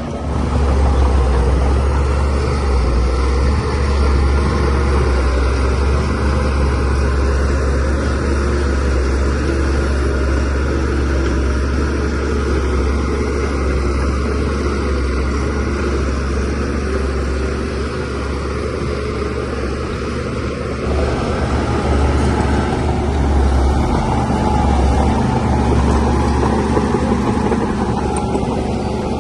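DH17C3 crawler bulldozer's diesel engine running under load, a steady deep drone that swells about a second in, eases off for a few seconds past the middle and picks up again.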